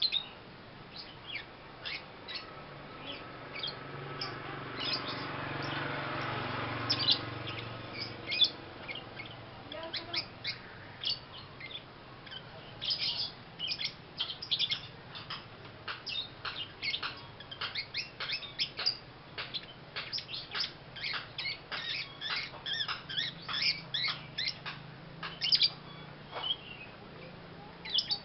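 Young lovebird chirping: many short, high chirps, sparse at first and coming thick and fast through the second half. A low steady hum runs underneath, and a broader lower sound swells and fades between about four and eight seconds in.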